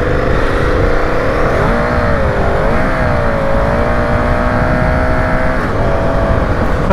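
V-twin motorcycle engine pulling away under throttle, its pitch rising over the first two seconds, wavering, then holding steady, with heavy wind noise on the helmet microphone. The wavering fits the rear tyre spinning slowly on the wet road.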